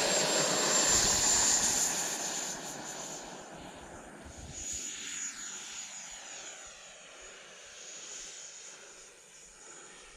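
E-flite F-16 RC jet's 70 mm electric ducted fan at full throttle, a steady high whine over a rushing hiss. It is loudest at the start and fades over several seconds as the jet takes off and climbs away.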